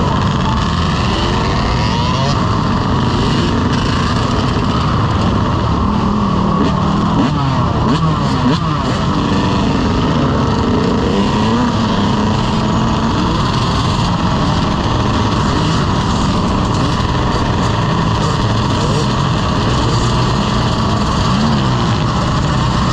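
Dirt bike engines running while riding, the revs rising and falling, over a steady dense rushing noise.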